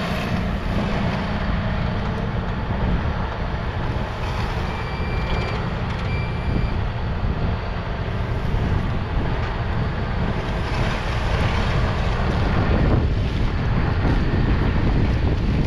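John Deere 6155R's 6.8-litre six-cylinder diesel running steadily while it works a five-furrow reversible plough, with wind buffeting the microphone. Two short high beeps sound about five and six seconds in.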